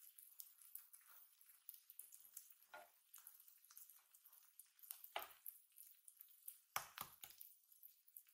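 Faint sizzling and crackling of okonomiyaki frying on an electric griddle, with a few knocks of a spatula against the griddle plate, the loudest a quick cluster a little before the end.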